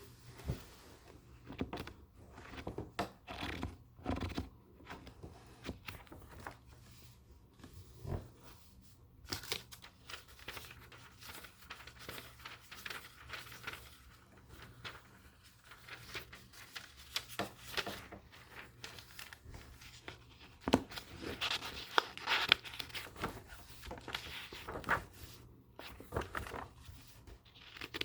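Paper book pages being turned and handled: irregular rustles and crisp crinkles with short soft knocks. The loudest rustling comes about three quarters of the way through.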